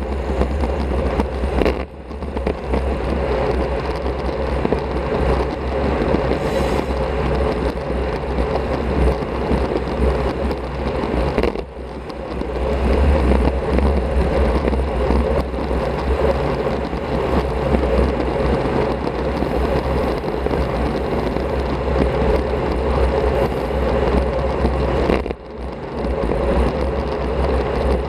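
Wind rushing over an action camera's microphone on a bicycle ridden at speed, with tyre and road noise. It is a steady, heavy low rumble that drops out briefly three times.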